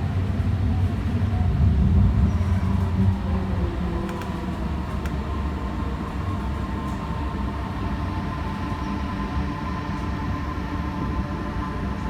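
Alstom Citadis Spirit light-rail train running between stations, heard from inside: a continuous rumble of the wheels on the track with a steady whine of the traction motors. The rumble is heavier for the first three seconds or so, then settles to an even run.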